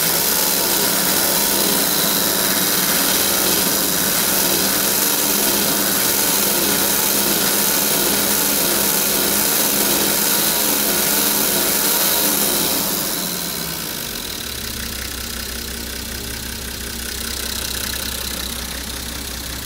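Nissan TD42 4.2-litre straight-six diesel idling steadily with diesel clatter. About 13 seconds in it becomes quieter and settles into a steadier low hum.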